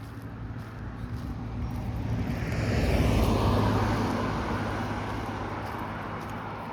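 A motor vehicle driving past, growing louder to a peak about three seconds in, then fading away as it goes by.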